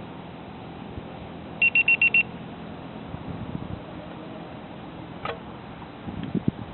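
Five quick, high-pitched electronic beeps in a row, over a steady background of wind noise.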